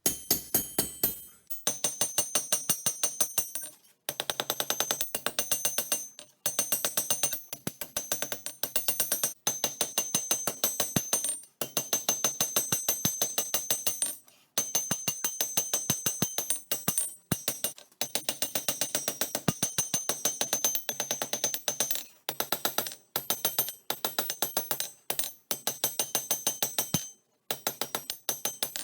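Hammer blows on hot spring steel over an anvil while forging knife blades: rapid strikes, about five a second, in short runs with brief pauses between them, each blow ringing metallically.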